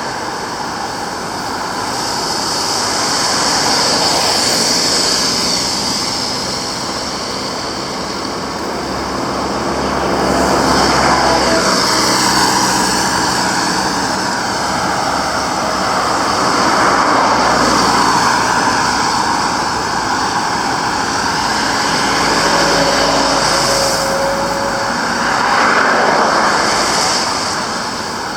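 Road traffic passing close by on a wet road: a steady noise that swells as vehicles go past, about four times, with tyres hissing on the wet surface.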